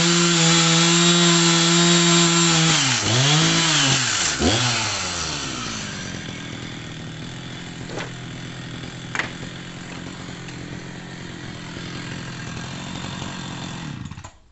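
Two-stroke chainsaw running at high revs with a steady note. The revs dip sharply and recover twice, then fall away to a quieter, lower running with a couple of clicks. The sound cuts off abruptly near the end.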